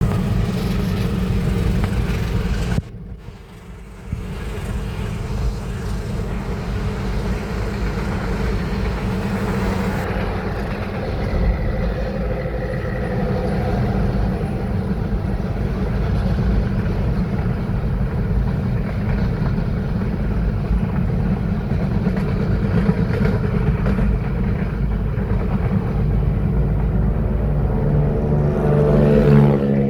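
Train rumbling steadily as it moves slowly, with a brief dip in level a few seconds in and an engine note rising in pitch near the end.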